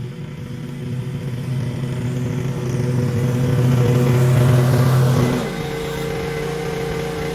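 Small gasoline engine of powered lawn equipment running steadily, growing louder toward the middle and dropping back a little about five seconds in.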